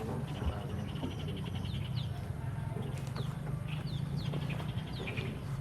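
Backyard chickens calling: many short, high, falling chirps and rapid trains of peeps over a steady low background.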